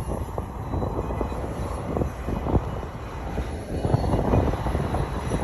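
Gusty wind buffeting a camera microphone with its windsock off, a rumbling low rush with scattered knocks.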